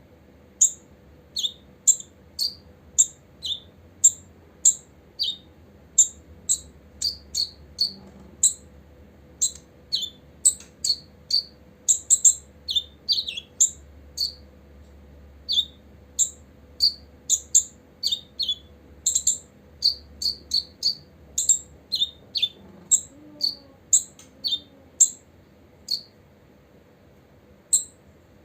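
Copper-throated sunbird calling: a long run of short, sharp high chirps, about two a second, some coming in quick pairs, with a short pause near the end.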